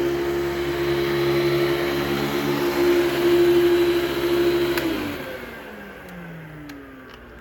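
Hoover Celebrity II Elite canister vacuum running steadily. About five seconds in, a click of its spring-loaded on-off button is followed by the motor winding down, its pitch falling away.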